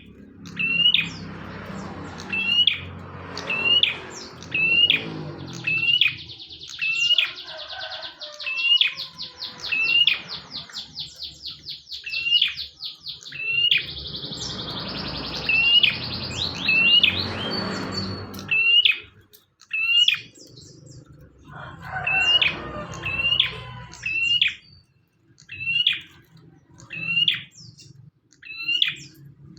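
A prenjak singing loudly and without pause: sharp upward chirps repeated about once a second, twice broken by a long, fast, buzzy trill in the middle.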